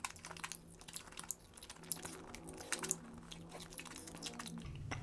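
Close-up chewing and biting of a roasted barbecue chicken wing: many small, irregular wet mouth clicks and soft crunches.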